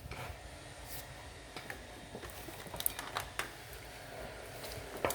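Handling noises from small parts and tools: a scatter of light clicks and taps, coming thickest about three seconds in and again near the end.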